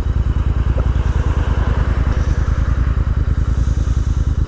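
Royal Enfield Interceptor 650's parallel-twin engine running steadily at low revs, an even, pulsing exhaust beat.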